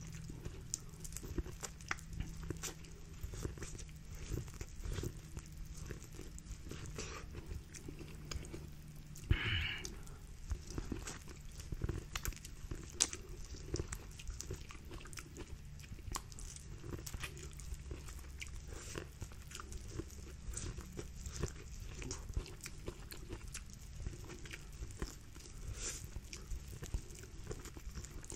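Close-miked eating: a person chewing and biting seafood-boil food, with many small wet smacking clicks and one brief louder noise about nine and a half seconds in.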